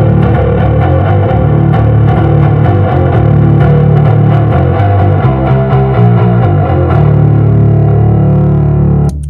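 Electric bass guitar played through the Lateral Sounds Root distortion pedal, a heavily distorted riff of changing low notes with the pedal's tone control turned up a bit, giving more bass end. The playing stops abruptly near the end, leaving a hum.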